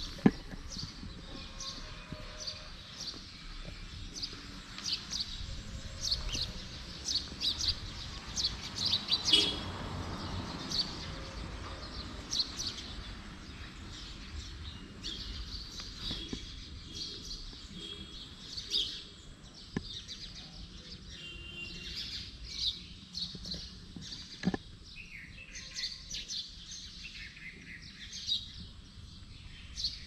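Small birds chirping, many short high chirps in quick runs throughout, over a low steady rumble.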